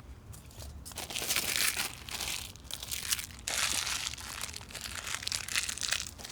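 Crinkling, rustling handling noise, in two long stretches: one from about a second in, and a longer one from about three and a half seconds.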